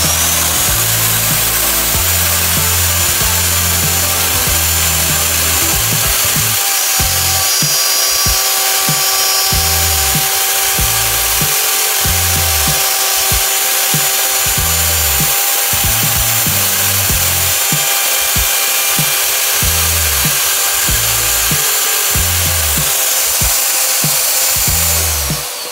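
Mastercraft 11-amp plunge router running at full speed with a steady high whine, its bit cutting into wood; the motor winds down, falling in pitch, near the end. Music with a steady beat plays underneath.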